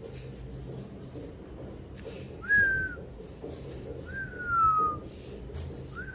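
Three short whistled notes about a second and a half apart, each a clear, high tone that falls in pitch over about half a second.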